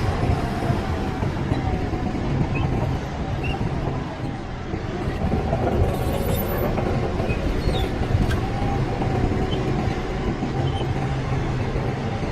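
Heavy diesel earthmoving machinery working, a steady low engine drone with a constant hum and no break.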